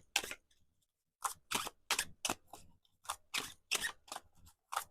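A tarot deck being shuffled by hand: a run of short, sharp card snaps, about two or three a second, after a brief pause near the start.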